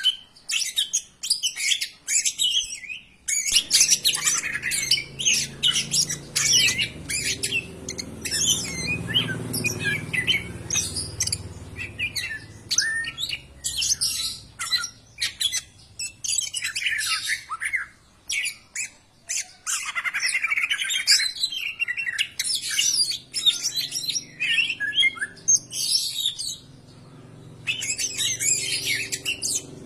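Cucak ijo (green leafbird) singing a fast, varied run of loud chirps, whistles and squawky notes with hardly a break. It pauses briefly a little before the end. A low hum runs underneath from a few seconds in.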